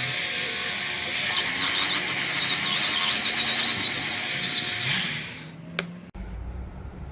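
Small high-speed electric carving or sanding tool working wood: a steady high whine over a hiss, wavering slightly in pitch, that winds down about five seconds in. Near the end the sound cuts abruptly to a quieter low rumble.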